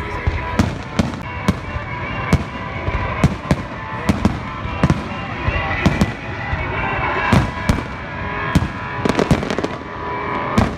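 Fireworks display: a steady run of sharp bangs, about two a second, with a quick cluster of them near the end.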